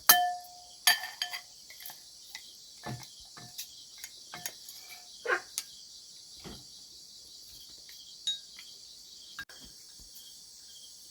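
Steady high chorus of insects, likely crickets, chirring in the forest. Over it come scattered sharp clicks and knocks of something being handled; the loudest, right at the start, rings briefly.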